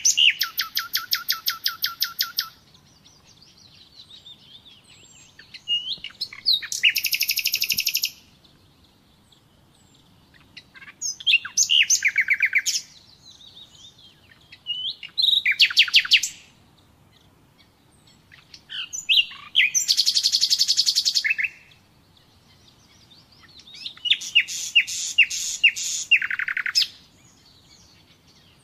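Common nightingale singing: a series of separate song phrases a few seconds apart, each a rapid run of repeated notes, some of them high and buzzy trills, others descending note by note.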